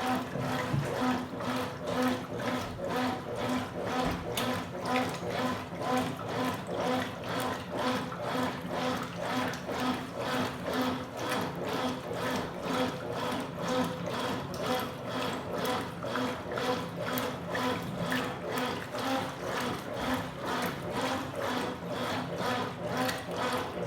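Consul Super Cargo 8 kg (CWL08C) top-loading washing machine agitating a load of towels in water: rhythmic sloshing and swishing strokes over a steady motor hum.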